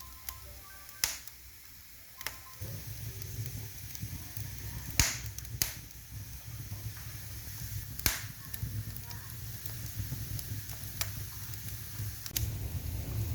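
Wood fire crackling, with sharp pops every few seconds over a low steady rumble.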